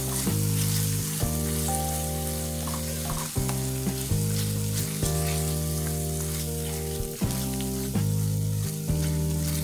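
Onion, pepper and tomato-paste sofrito sizzling in a pot as a wooden spoon stirs and scrapes it, over background music of sustained low chords that change every second or two.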